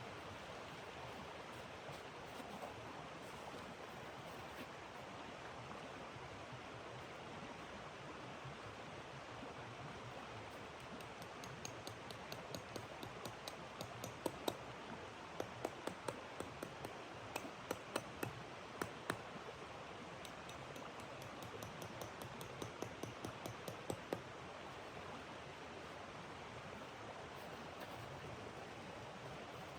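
Wood fire crackling with a run of sharp, irregular pops through the middle stretch, over a steady rushing hiss like wind.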